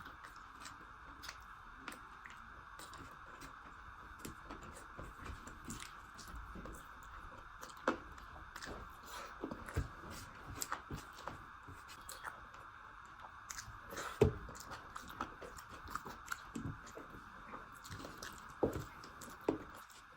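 A person chewing and eating close to the microphone: wet mouth sounds and smacks with many short clicks and a few louder crunches, one standout about fourteen seconds in. A steady hiss runs underneath.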